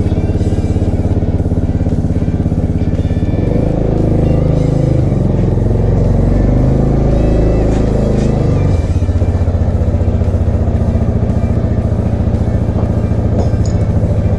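Honda Forza MF10's 250 cc single-cylinder engine running at idle, with the revs raised and varied for a few seconds in the middle before settling back to a steady idle.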